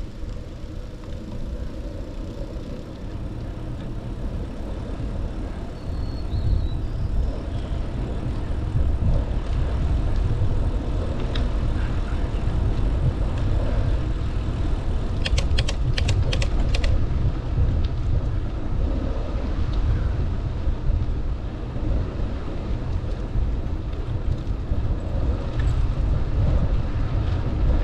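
Steady low rumble of wind and ride noise on a camera carried on a moving bicycle, growing louder about six seconds in, with a short run of sharp clicks around the middle.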